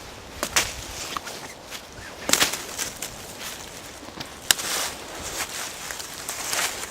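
Footsteps crunching through dry fallen autumn leaves and twigs, irregular steps of a person walking over the forest floor.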